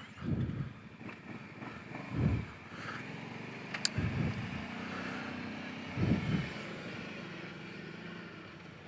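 Kawasaki Brute Force 750 ATV's V-twin engine running low and steady, with a low rumbling swell about every two seconds.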